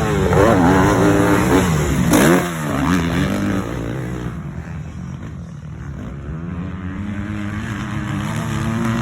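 Motocross bike engine revving hard, its pitch rising and falling quickly for the first few seconds, then dropping back quieter and building steadily again near the end.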